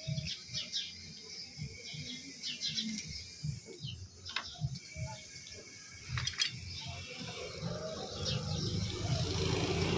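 Birds chirping in the background over low knocks and rubbing, with a steady low rumble building up near the end.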